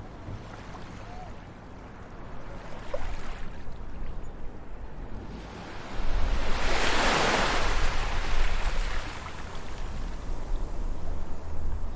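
Ocean surf on a beach: waves wash in, and one breaks a little past halfway as a loud rush of foaming water that slowly ebbs away.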